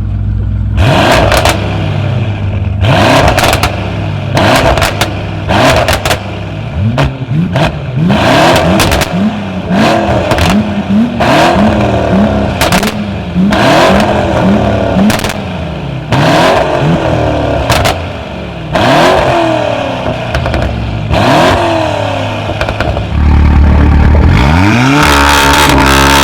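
Tuned car engine revved over and over in quick blips, each rising and dropping back within about a second, with sharp pops and crackles from the exhaust as the revs fall. Near the end it climbs in one long rev and is held high.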